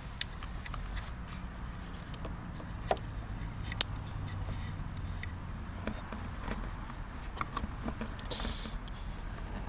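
A low steady rumble with scattered sharp clicks and ticks, the loudest three in the first four seconds, and a short hiss near the end.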